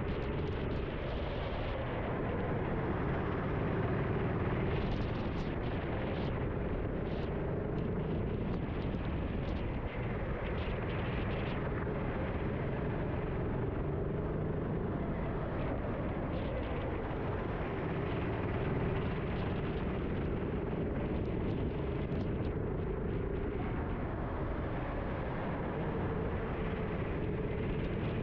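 Racing kart's engine running under load, heard from a camera on the kart, its pitch rising and falling gently as the kart accelerates and slows through the corners, over a steady rush of noise with occasional short knocks.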